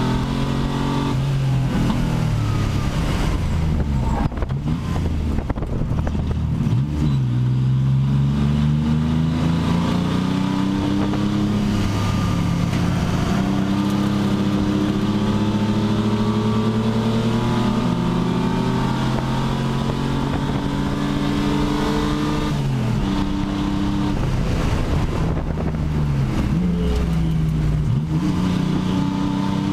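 Pontiac Fiero race car's engine heard from inside the cockpit, revving up through the gears and dropping in pitch at shifts and braking for corners, over and over. Midway one downshift goes into fourth instead of second and is corrected to third.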